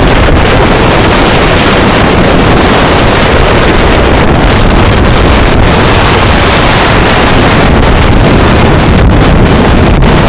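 Strong wind blasting the microphone, a loud, steady rush of noise that overloads the recording.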